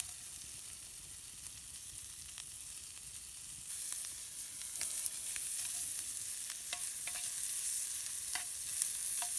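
Sausage and onion frying in plenty of butter in a pan over a campfire: a steady sizzle that grows louder a few seconds in, with scattered crackles and pops.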